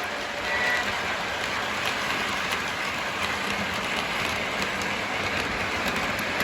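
Model train running on a layout, a steady rattling rumble of wheels and motor on the track, with the end of a faint horn tone about half a second in.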